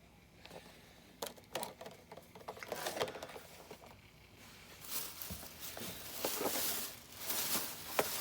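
Handling noise from packaged diecast model trucks: scattered light clicks and taps, then a longer stretch of plastic packaging rustling and crinkling about five seconds in.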